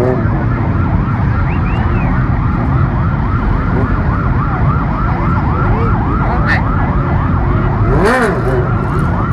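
Emergency-vehicle siren in fast yelp mode, rising and falling about four times a second, over a steady low rumble of road traffic. About eight seconds in there is a single slower, louder rise and fall.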